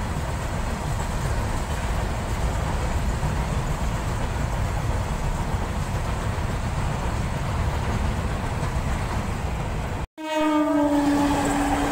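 Indian Railways freight train of covered goods wagons rolling past a level crossing, a steady noise of wheels on rails. After a sudden break about ten seconds in, a train horn sounds one long steady note.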